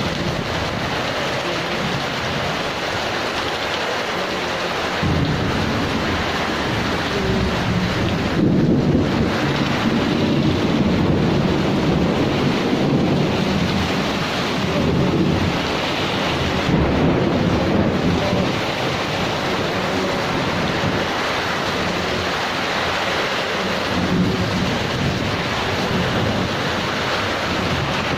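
Heavy rain in a thunderstorm, falling with a steady hiss, while thunder rolls in low rumbling swells through the middle stretch and briefly again near the end.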